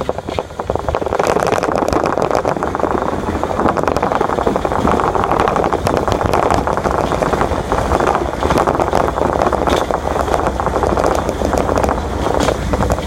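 Senate subway car running through its tunnel: a steady rumble full of quick rattling clicks, growing louder about a second in and then holding level.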